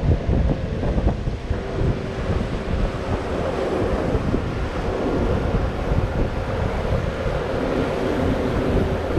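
Wind buffeting the microphone aboard a moving cruise boat, over the steady hum of the boat's engine and the rush of water.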